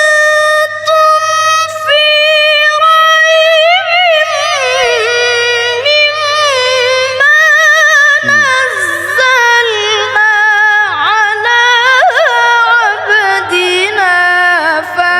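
A solo voice in melodic Quranic recitation (tajwid). It sings one long ornamented phrase of held notes, with wavering trills and glides up and down in pitch and a few brief breaths between.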